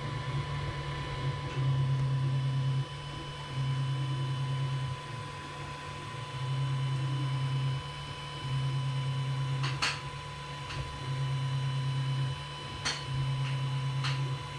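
Creality CR-10 3D printer running a print: its stepper motors hum a low tone in spells about a second long, roughly every two and a half seconds, over a steady fan whine. A few faint clicks come in the second half.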